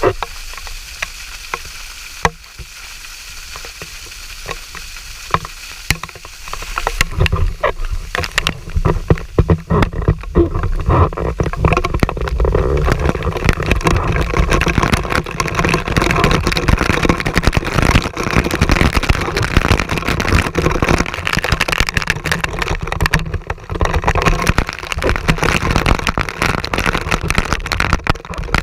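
Scattered clicks and knocks over a low rushing noise, then about seven seconds in a loud, steady rushing noise sets in and holds, with many small clicks and crackles over it.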